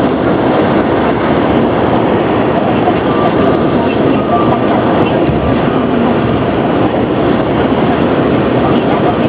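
Car driving, with a steady, loud mix of engine and road noise.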